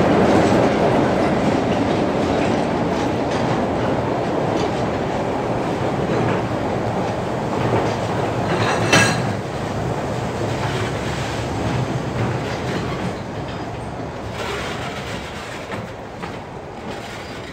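Freight train's flat wagons rolling past, wheels clacking over the rail joints, with one sharp knock about nine seconds in. The rumble fades steadily as the train moves away.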